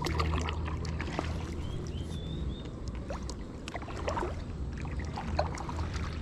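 Kayak being paddled: paddle blades dipping and splashing in the water, with scattered short knocks and clicks.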